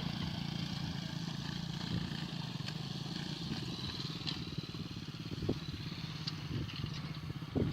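A motorcycle engine runs steadily with a fast, even firing beat, and a few light clicks and clatters sound over it.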